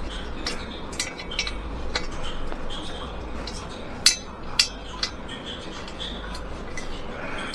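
A series of light, irregular clinks and clicks of small hard objects being handled, the sharpest two about four and four and a half seconds in.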